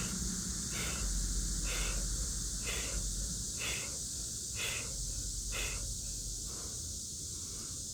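A man breathing out hard with each push-up, about one sharp breath a second, seven times, stopping about six seconds in. Under the breaths is a steady, high-pitched cicada chorus.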